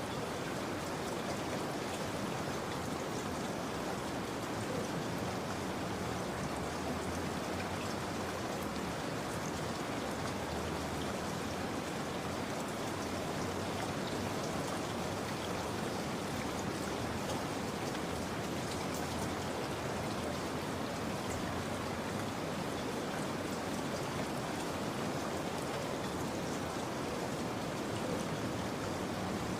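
Steady rain falling, an even patter of raindrops with scattered faint drips and no change in intensity.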